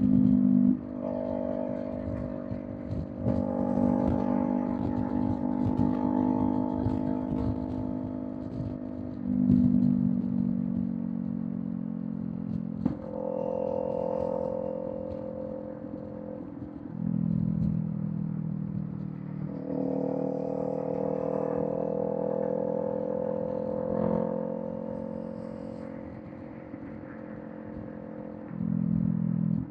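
Kawasaki Z400's parallel-twin engine running through a Villain M1 aftermarket exhaust at expressway speed. The engine note changes pitch and loudness in steps every few seconds, with louder surges near the start, about 9 s, 17 s and near the end.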